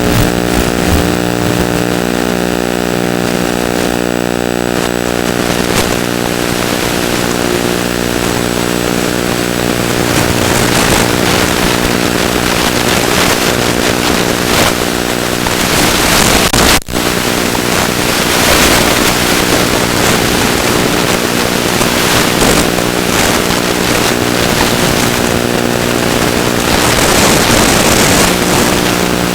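ZOHD Drift's brushless pusher motor and propeller whining at a steady throttle in flight, with wind rushing over the airframe. The sound cuts out for an instant about 17 seconds in.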